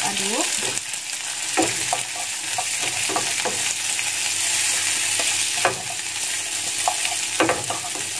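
Baby corn and bell pepper sizzling in a non-stick frying pan as they are stir-fried, with a steady frying hiss. A wooden spatula scrapes and knocks against the pan now and then.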